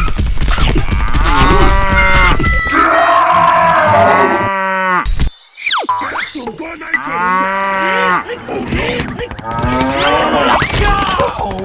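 Cattle mooing: two long calls that rise and fall in pitch, with more shorter calls near the end.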